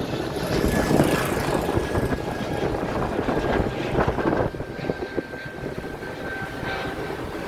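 Strong wind buffeting the microphone, rising and falling in gusts, over a steady rushing noise, with a thin steady high whine running through it.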